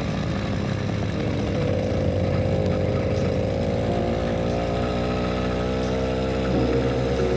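Motorcycle engine running under way, its pitch rising a little about two seconds in and then holding steady.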